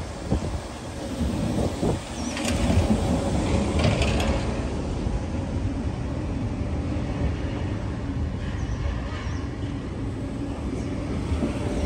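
Vintage red electric suburban train rolling slowly past at close range: a steady rumble of wheels on rail and running gear, with a faint hum and occasional clicks.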